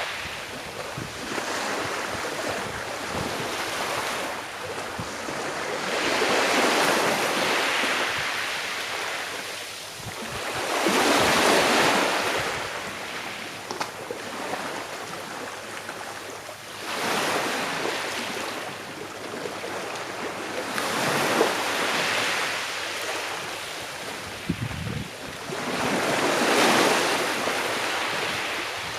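Calm sea waves washing onto the shore, each wave swelling and then fading back, a new one about every four to five seconds.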